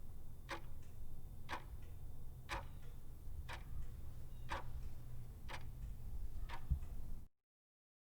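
Regular ticking, one sharp tick about every second, over a low steady hum; it cuts off abruptly about seven seconds in.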